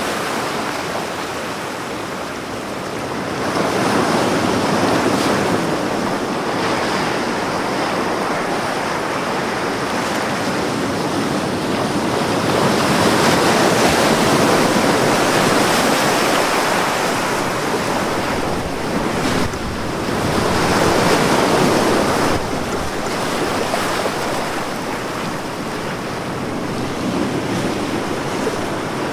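Ocean waves breaking on a beach, a steady wash of surf that swells and falls back several times, with wind noise.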